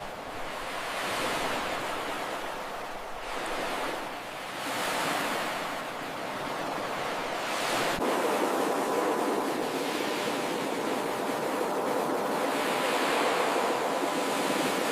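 Ocean surf: waves swelling and washing in several times, then a steadier, louder rush of surf from about halfway through.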